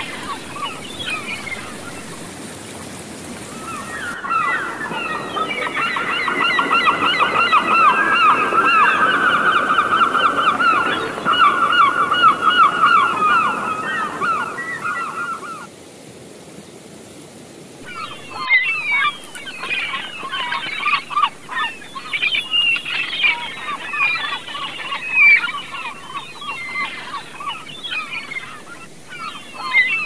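Birds calling over the steady rush of a forest stream: a loud, rapid run of repeated notes from about four seconds in that stops abruptly near the middle, then shorter, scattered calls.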